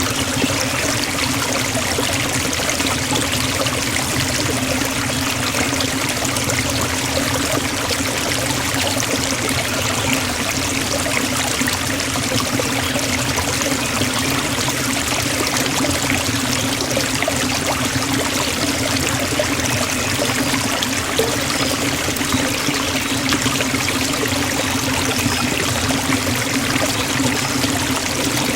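Forest waterfall: water falling and rushing steadily, an even splashing hiss with a low rumble underneath.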